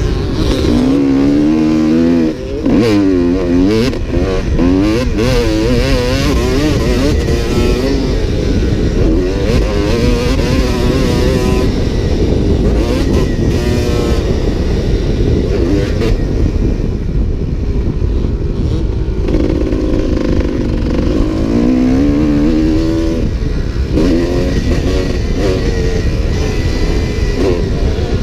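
Motocross dirt bike engine revving up and falling back again and again as the throttle is worked around the track. The power drops off sharply for a moment about two seconds in.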